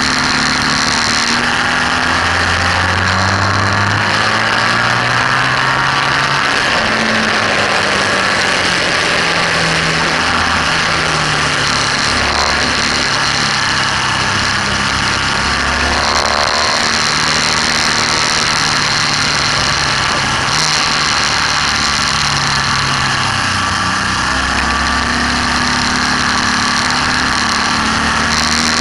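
BMW R1200S air/oil-cooled flat-twin engine heard on board at track speed, its pitch repeatedly climbing and then dropping as the bike accelerates and shifts, under constant wind rush.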